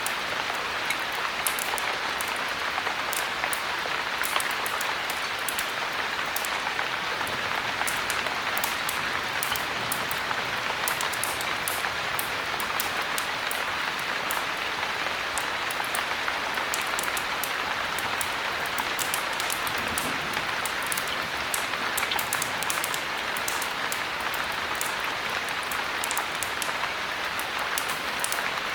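Steady heavy rain, an even hiss with many tiny sharp ticks scattered through it, unchanging throughout.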